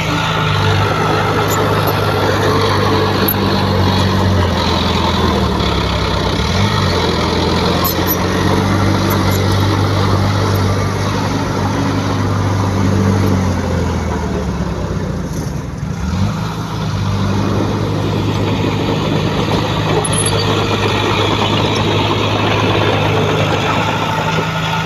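Heavy diesel engine of earthmoving machinery running under load, its note dropping and picking back up a couple of times as engine speed changes.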